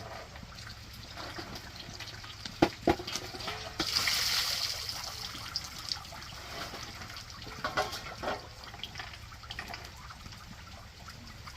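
Water being poured and splashing, with small drips and clinks throughout. Two sharp knocks come about two and a half seconds in, then a louder rush of pouring lasting about a second.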